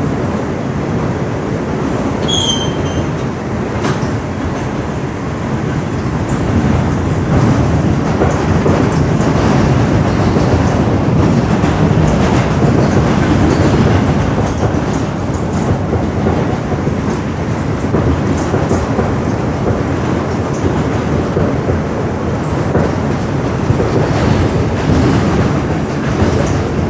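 R142 subway car running between stations, heard from inside: a steady rumble and clatter of wheels on the rails, a little louder in the middle. There is a brief wheel squeal about two seconds in and a thin high whine in the background.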